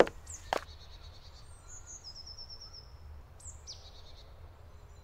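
Woodland ambience: small songbirds calling, with a quick run of high repeated chirps about two seconds in and a couple of falling calls a little later, over a steady low rumble. Two sharp knocks come in the first half-second.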